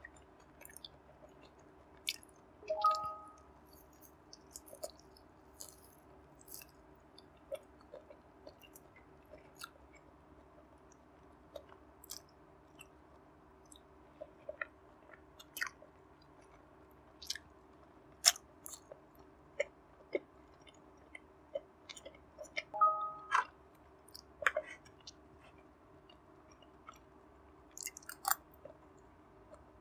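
Close-miked chewing and biting of barbecue-glazed pork belly and soft vegetables: scattered wet mouth clicks and crunches. A short pitched sound comes about three seconds in, and again about three-quarters of the way through.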